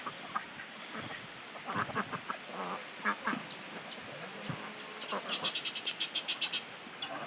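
Farmyard ducks and geese calling: scattered short calls, then a quick run of high, evenly repeated calls from about five seconds in.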